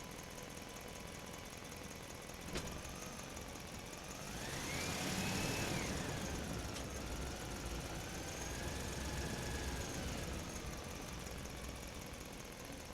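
Small electric motor of a toy dump truck whining: after a click about two and a half seconds in, the whine rises in pitch about four seconds in, then wavers lower as it runs on.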